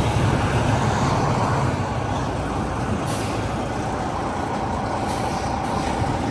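Semi truck's diesel engine running steadily, with two brief high hisses, about three and five seconds in.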